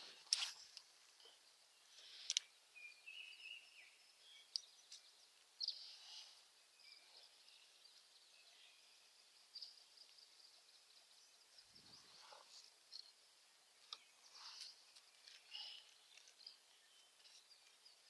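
Near silence: faint outdoor ambience with scattered short, high chirps and a few sharp clicks.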